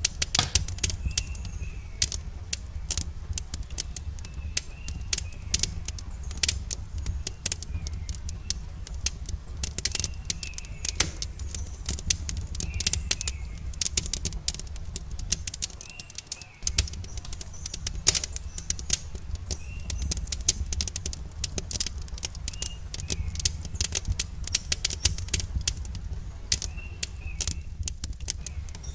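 Campfire crackling with many sharp, irregular pops over a low steady rumble. A bird calls repeatedly with short chirps every second or two.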